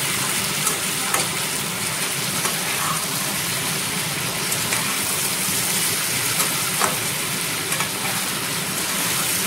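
Potato, pumpkin and prawn pieces sizzling steadily as they fry in oil in a kadai, with a steel spatula stirring and scraping the pan now and then.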